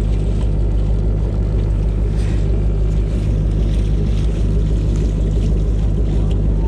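Motorboat engine running steadily at low speed, a deep even drone.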